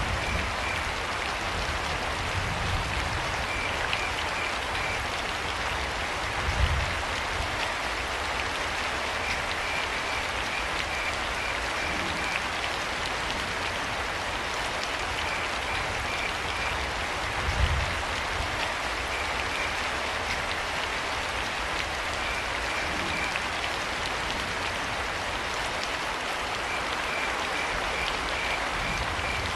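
Steady rain falling, with a cricket chirping in short trains of rapid, high-pitched pulses every few seconds. Two brief low thuds stand out, about seven and eighteen seconds in.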